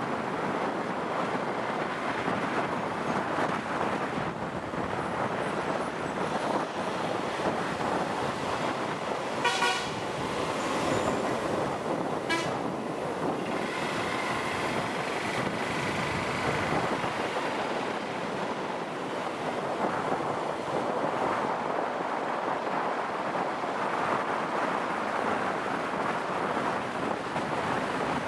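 Steady wind and road noise from a moving motorcycle, with two short vehicle horn toots about ten and twelve seconds in.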